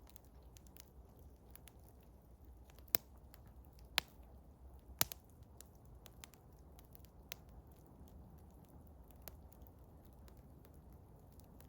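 Eastern hemlock wood fire crackling: scattered sharp pops, the loudest three about a second apart a few seconds in and a few smaller ones later, over a faint low rumble.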